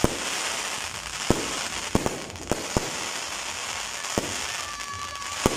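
Aerial fireworks going off: a steady crackle of bursting shells, with about eight sharp bangs spread through.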